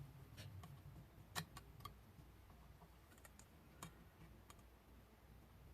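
Near silence, broken by a few faint, scattered light clicks and taps as polymer clay and small tools are handled on a work surface.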